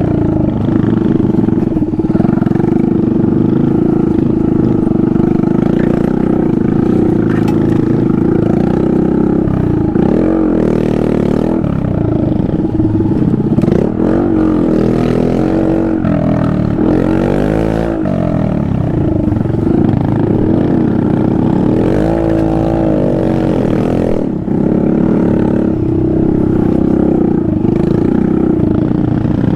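Small vehicle engine running loud and steady as it is ridden, then revving up and down over and over, with some clatter.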